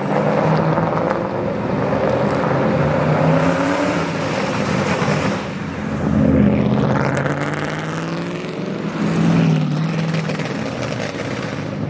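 Car engine running and revving as a car drives off, the engine note rising and falling with two louder swells.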